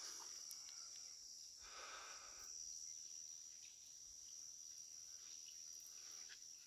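Faint, steady high-pitched chorus of insects, with a soft brief rustle about two seconds in.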